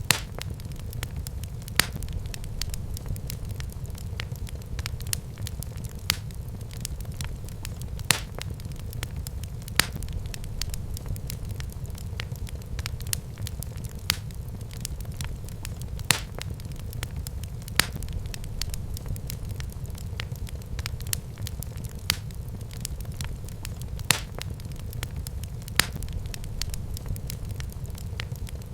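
Wood fire burning in a fireplace: a steady low rumble of flames with continual sharp crackles and pops, a louder pop about every two seconds.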